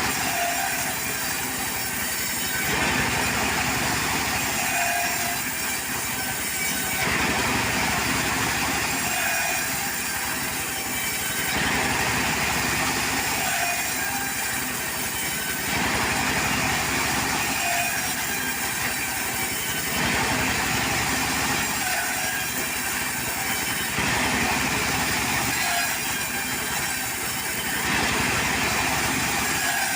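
Portable sawmill running: a steady, loud mechanical noise that swells and eases about every four seconds.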